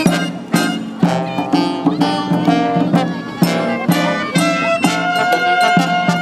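Live brass band music, with sustained horn notes over drums keeping a steady beat of about two strokes a second.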